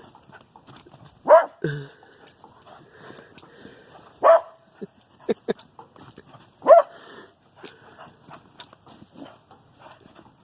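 A dog barking: three sharp single barks a couple of seconds apart, with softer small sounds in between.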